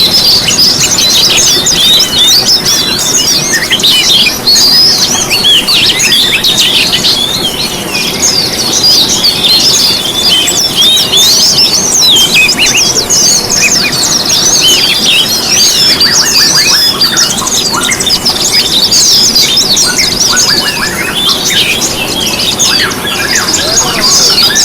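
A dense chorus of many small songbirds chirping and trilling at once, rapid high overlapping notes with no pause, played as a lure to set caged songbirds singing.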